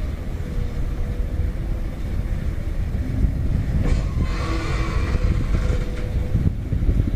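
Heavy diesel earth-moving machinery running: a steady low rumble with a faint, even whine over it.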